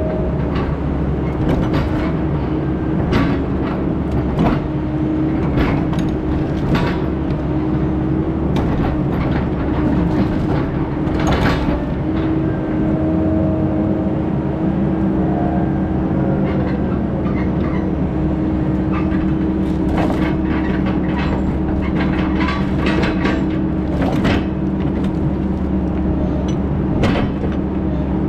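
Heavy-equipment diesel engine running steadily at constant speed, with frequent rattles and knocks over the hum.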